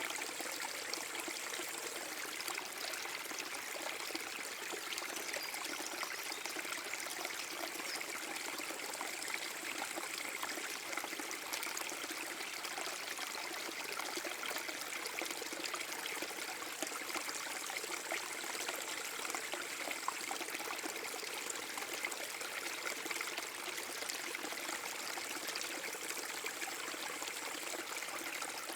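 Water of a small forest-brook waterfall splashing and flowing steadily, an even hiss mostly in the middle and high range.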